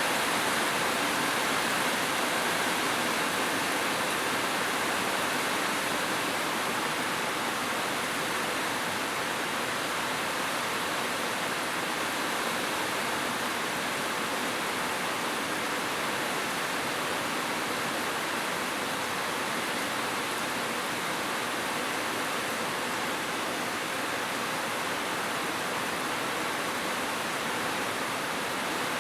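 Heavy rain falling steadily on a roof, an even, unbroken hiss with no thunder.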